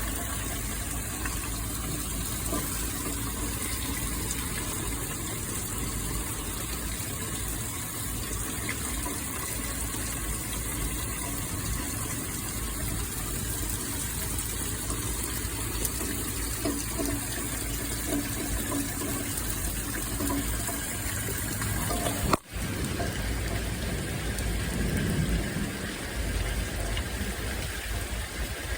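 Rain falling: a steady hiss of water, with a brief dropout about three-quarters of the way through.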